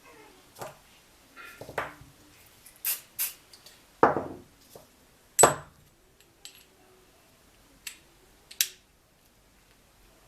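Metal tools and engine parts being handled on a workbench: an irregular run of clinks and knocks, loudest about four and five and a half seconds in.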